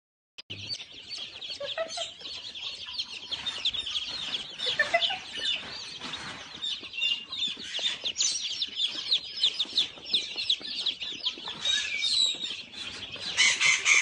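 Many birds chirping at once in a dense, continuous chatter of rapid high calls, starting abruptly about half a second in, with a louder flurry near the end.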